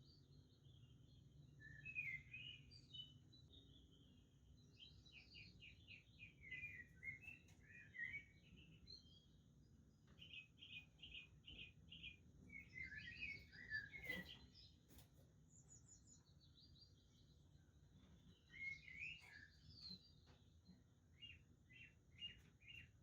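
Budgerigars chattering faintly: a jumble of squeaky, warbling chirps from several birds, with two quick runs of about five repeated notes, one near the middle and one near the end.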